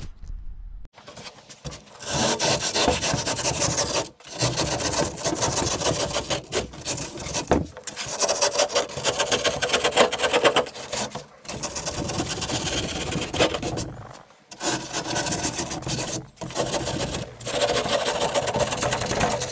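80-grit sandpaper scraping back and forth over XPS foam by hand in quick strokes, stopping briefly every few seconds, as the bulk is knocked off a rough-shaped hull.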